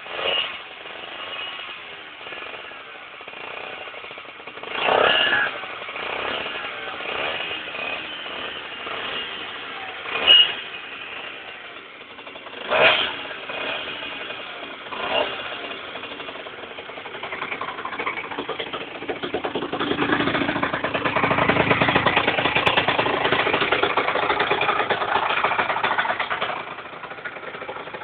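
Yamaha TZR 50's two-stroke single-cylinder engine with a LeoVince exhaust, idling with several short throttle blips. It is then held at higher revs for about eight seconds before dropping back to idle near the end.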